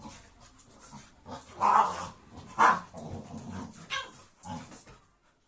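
A dog making a series of short vocal sounds, about five in all, the loudest about two seconds in.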